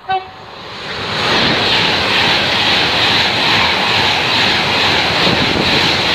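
A brief single-note horn toot from an approaching Class 390 Pendolino electric train, then the train passing at speed: a loud, steady rush of wheels and air that builds about a second in and starts to fade near the end.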